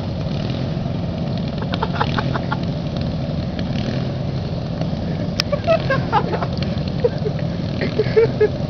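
Riding lawn mower engines running steadily, a continuous low drone.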